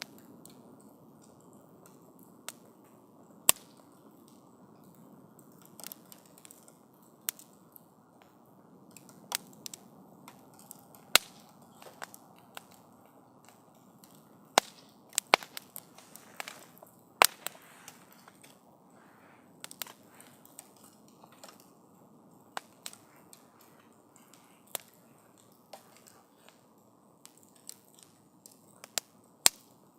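Wood campfire crackling: irregular sharp pops and snaps over a low, steady hiss of the burning fire, with a quick flurry of pops about halfway through.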